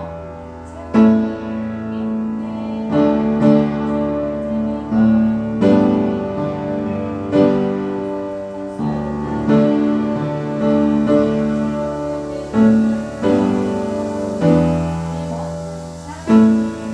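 Piano playing slow chords, struck about once a second and left to ring.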